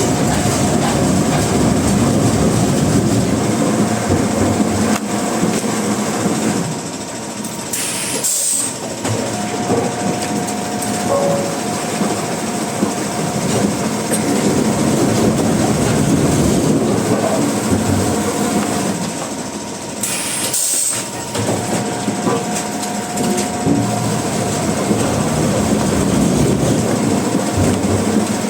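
Sawmill machinery running steadily with a rattling, rail-like clatter. It eases off briefly about eight seconds in and again about twenty seconds in, each time with a short high hiss.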